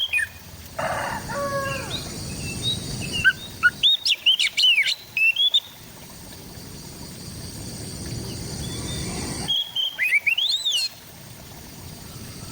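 Oriental magpie-robin (kacer) singing in short bursts of quick whistled, sweeping notes, with pauses between phrases. A brief, lower, harsher call is heard about a second in, over a steady low background rumble.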